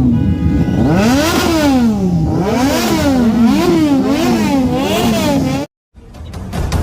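Motorcycle engine revved repeatedly, its pitch climbing and falling with each blip of the throttle, then cutting off abruptly near the end. Music comes in just after.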